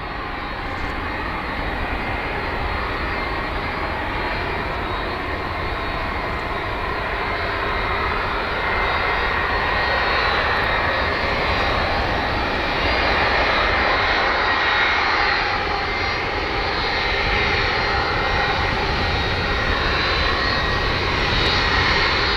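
An airliner's engines running as the aircraft passes near the runway: a steady rushing noise with a thin high whine, growing louder from about eight seconds in.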